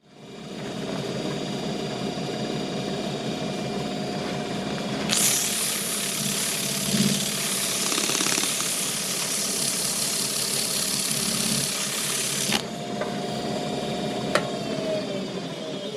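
Wood lathe running with a steady motor hum while sandpaper is held against the spinning ash workpiece, a loud hiss from about five seconds in until past twelve seconds. Near the end there is a click and the lathe's pitch falls as it is switched off and spins down.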